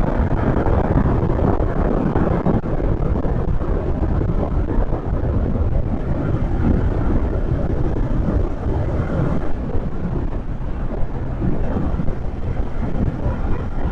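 Wind buffeting the microphone on a moving motorcycle, with the Kawasaki Z650's engine and road noise underneath as a steady rush.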